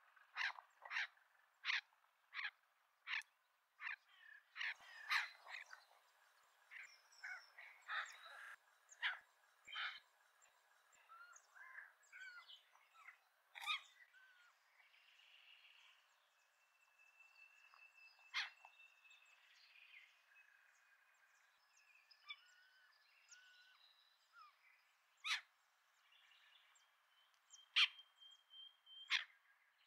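Birds calling in the trees: a run of sharp, evenly spaced calls, about two a second, in the first few seconds, then scattered chirps and short whistles, with a few loud single calls near the end.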